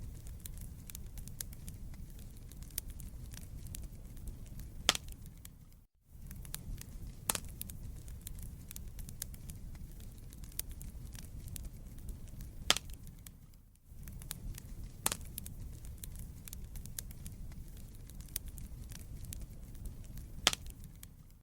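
Wood fire crackling in a fireplace: sharp pops and snaps over a low, steady rumble of burning logs. It drops out briefly twice.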